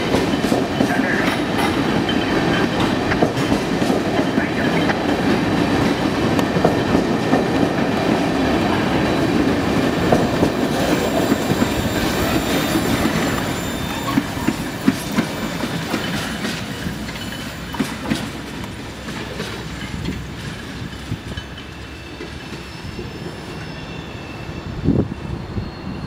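Freight train of tank cars rolling past: steady rumble with rapid clicking of wheels over the rail joints and a thin high wheel squeal at times. About halfway through the last car goes by and the sound fades as the train moves away.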